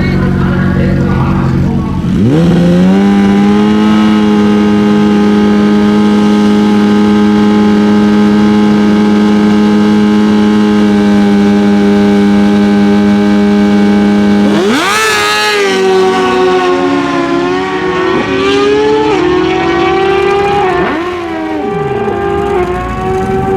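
Naturally aspirated drag bike engine brought up and held at a steady high rpm for about twelve seconds at the line. About fifteen seconds in it launches, the pitch climbing hard and dropping sharply at each upshift as it accelerates down the strip.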